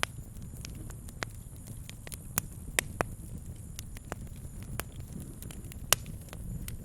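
Campfire burning with irregular sharp crackles and pops of burning wood, a few louder snaps among them, over a steady low rumble of the flames.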